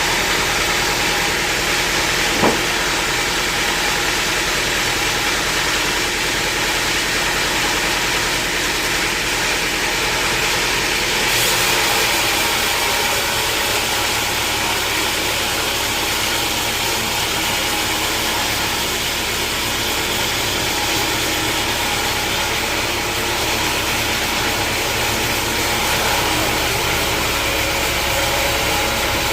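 Sawmill machinery running steadily, with one sharp knock about two seconds in.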